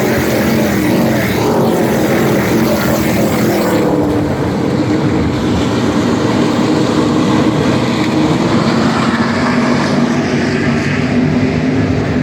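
NASCAR Craftsman Truck Series race trucks' V8 engines running at speed past the wall, several engines heard at once, with pitches gliding downward as they go by.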